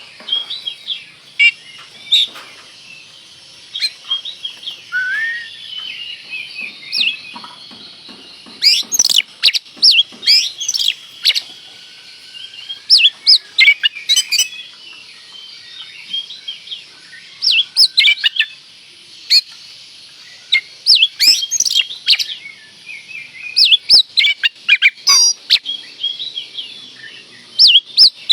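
Oriental magpie-robin (kacer) singing a fast, varied song of whistles and chirps, with loud bursts of rapid notes every few seconds.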